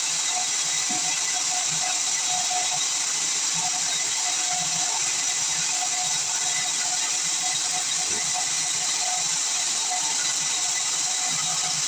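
Band sawmill machinery running: a steady, high hiss of noise with a faint broken tone under it.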